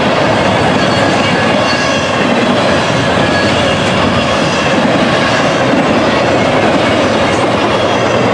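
Union Pacific double-stack container freight train rolling past, its cars sounding a loud, steady rumble and clatter of wheels on rail, with thin squealing tones over it.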